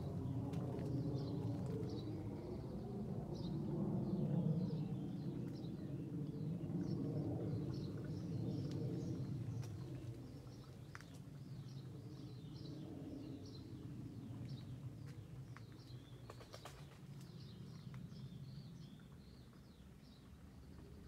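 Small birds chirping, a rapid run of short high notes repeated throughout, over a low background rumble that fades after about ten seconds.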